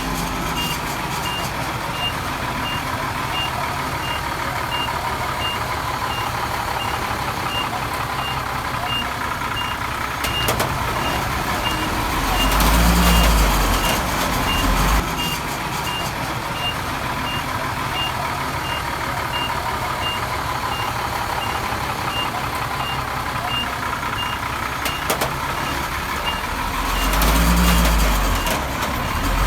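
Heavy diesel earthmoving machinery running steadily, with a reversing alarm beeping about once a second throughout. Twice, around halfway and again near the end, a deep engine note swells loudly and then falls back.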